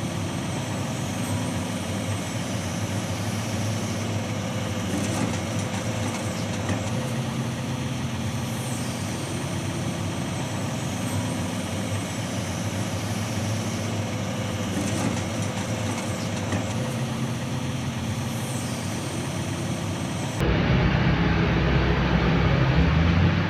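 Forestry forwarder's diesel engine running steadily, with faint high whines rising and falling every few seconds. About 20 seconds in, the sound cuts abruptly to a louder, deeper engine sound.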